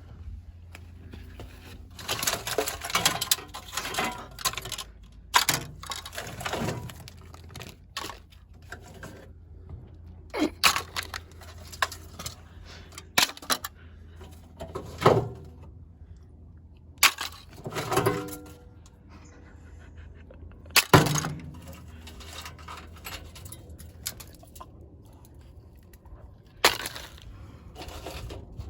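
Indesit IWC61651 washing machine being wrecked: irregular heavy crashes and breaking impacts, a dense cluster a couple of seconds in and then single blows every few seconds, over a steady low hum.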